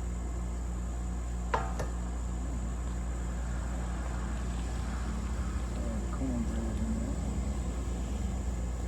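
Steady low engine hum running without change, with a single sharp click about a second and a half in.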